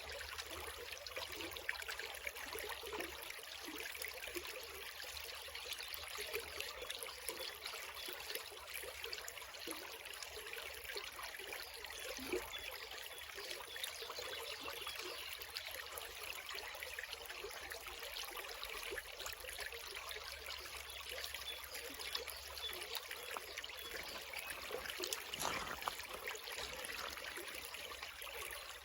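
A shallow creek flowing steadily, water trickling and splashing over stones.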